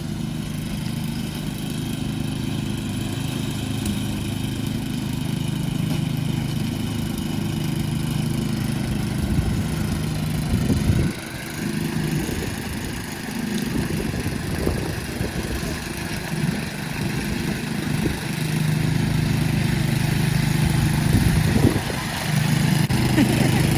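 An engine running steadily with a low hum, its note wavering and dropping out briefly about halfway through.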